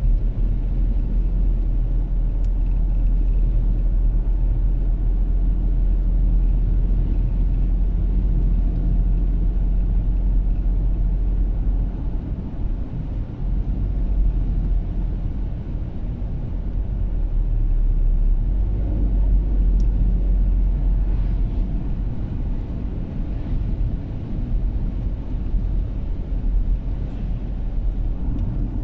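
Car driving on a snowy road: a steady low rumble of engine and tyres that eases a little about halfway through and then builds again.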